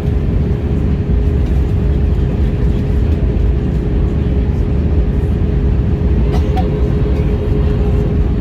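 Airliner cabin noise during a flight: a steady low rumble of the engines and airflow with a constant hum through it, heard from inside the cabin. A couple of faint clicks come about six seconds in.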